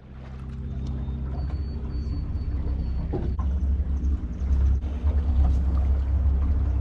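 A small boat's motor running steadily: a deep low rumble with a steady hum over it, building up over the first couple of seconds.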